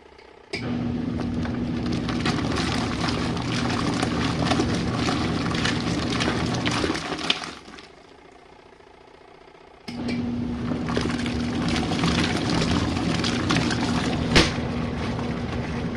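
Compact RV washing machine's wash motor running the rinse with water sloshing in the tub: it starts, runs for about seven seconds, stops for about two seconds, then starts again in its stop-start agitation cycle. A single sharp click comes near the end.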